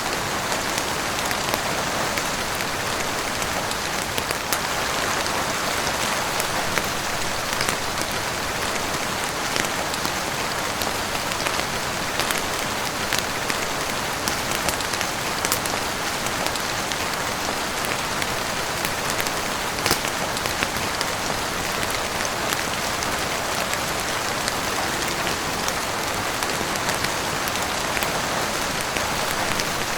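Heavy rain falling steadily on a roof, a dense even hiss, with sharp crackles of a wood fire popping irregularly throughout.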